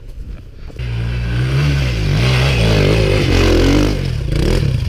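Dirt bike engine revving from about a second in, its pitch rising and falling with the throttle.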